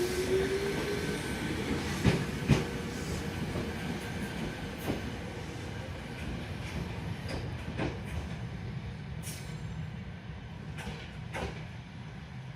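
Electric train pulling out of a station. Its motor whine rises and ends about a second in. Then the wheels knock over the rail joints at uneven intervals over a low rumble that slowly fades as the train moves away.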